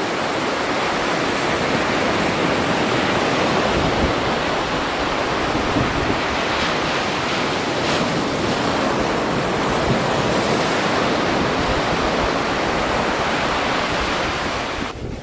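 Steady rushing water, a loud, even wash of noise that drops off sharply just before the end.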